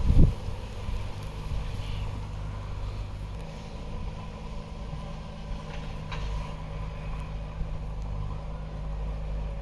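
Vehicle engine running steadily at idle, a low even hum, with a dull thump right at the start.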